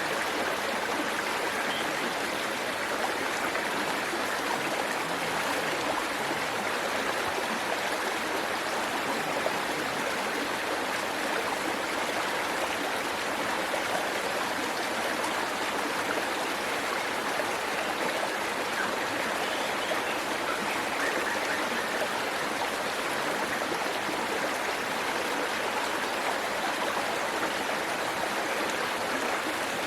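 Waterfall and stream water rushing steadily, an even, unbroken wash of noise.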